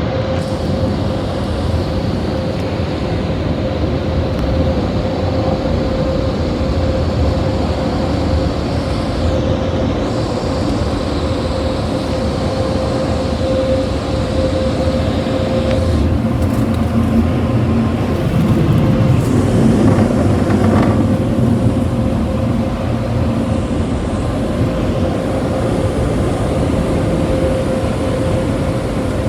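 The moving air dryers of a Ryko Soft Gloss MAXX 5 car wash blowing over a car: a loud, steady rush of air with a constant whine, swelling slightly about two-thirds of the way through.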